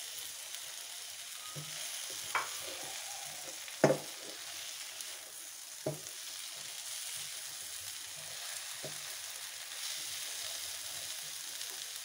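Chicken and bitter gourd masala sizzling in a non-stick frying pan as it is stirred with a silicone spatula. A few sharp knocks from the spatula come through the hiss, the loudest about four seconds in.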